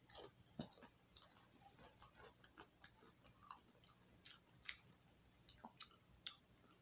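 Faint chewing of a crunchy chicken chip in a person's mouth: a scattering of irregular small crunches.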